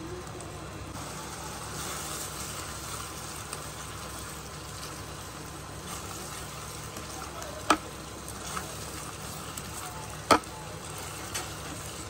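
Thick onion-tomato-beetroot masala sizzling in a nonstick kadai as it is stirred and fried down, a steady frying hiss. Two sharp knocks come in the second half, about two and a half seconds apart.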